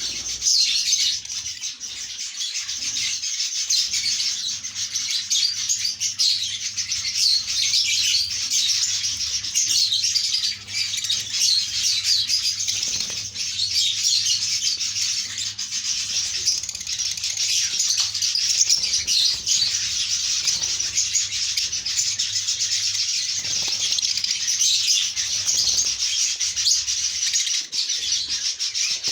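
A flock of lovebirds chattering continuously in shrill, rapid chirps, with a faint steady low hum underneath.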